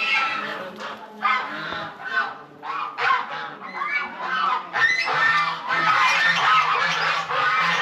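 A flock of farm poultry calling: separate short calls at first, then many overlapping calls from about five seconds in.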